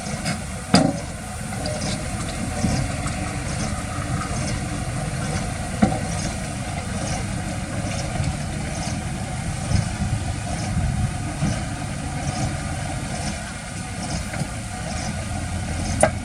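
Heavy diesel machinery engine running steadily at low revs, with a few sharp metallic clacks and a faint high ticking repeating about once a second.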